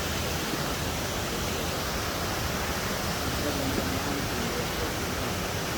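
Swallow Falls waterfall: a steady, dense rush of falling water.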